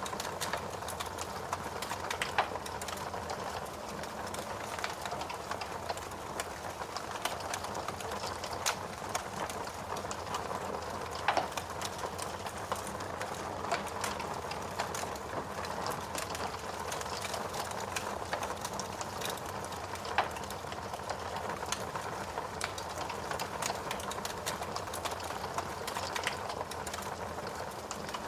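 Steady rain hiss mixed with the irregular crackling of a wood fire: many small snaps, with a few louder pops scattered through.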